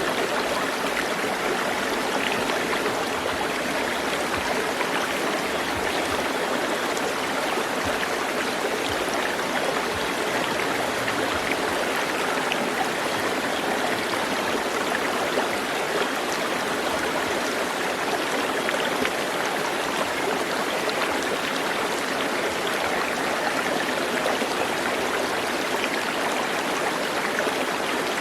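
Running water of a stream, a steady, even wash of flowing water.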